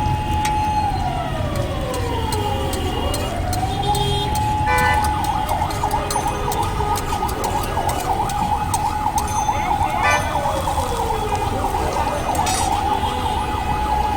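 A vehicle siren wailing, its pitch rising, holding at the top for a while and falling again, cycling every few seconds over a steady low traffic rumble. Scattered sharp clicks sound through it.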